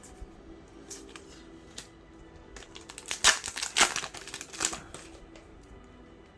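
Trading cards and their foil packaging being handled: a flurry of crisp rustling and clicking about halfway through, over quiet background music.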